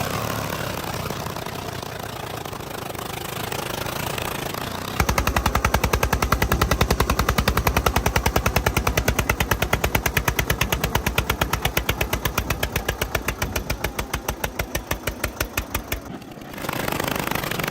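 Tractor diesel engine running, with a rapid, even thudding beat that starts abruptly about five seconds in and stops suddenly near the end.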